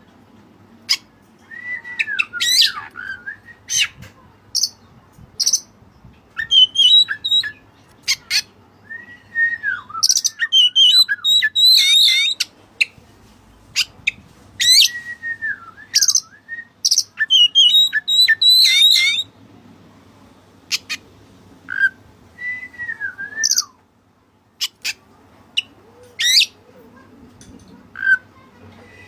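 Oriental magpie-robin (kacer) singing: a varied song of whistles, chirps and fast high trills, including falling slurred notes, delivered in phrases broken by short pauses.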